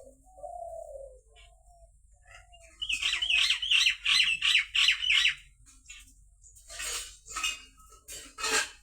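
Birds calling. A short, lower falling call comes first. Then comes a loud, rapid run of about seven high repeated notes, about three a second, and a few harsher calls near the end.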